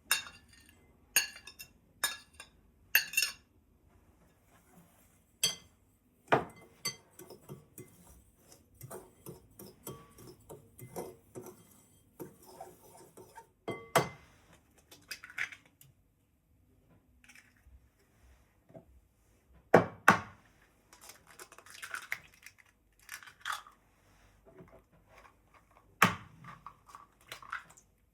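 Dishes and utensils being handled in a kitchen: scattered clinks, taps and clatter, with a few louder knocks spread through.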